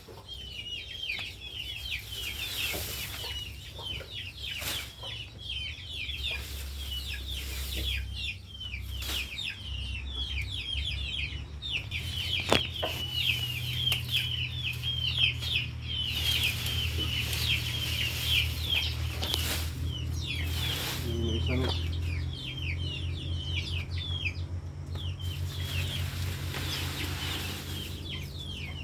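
Chickens calling without a break, a rapid stream of short, high calls, over a steady low hum.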